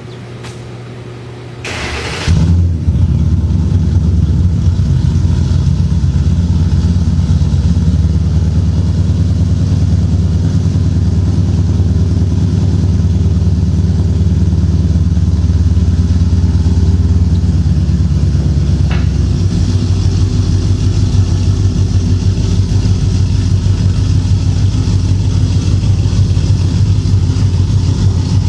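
2007 Mustang GT's 4.6-litre V8 on its first start through a full 3-inch exhaust with long-tube headers, X-pipe and glasspack turndowns: a short crank, then it catches about two seconds in and settles into a loud, deep, steady idle. Its lowest rumble eases a little about two-thirds of the way through.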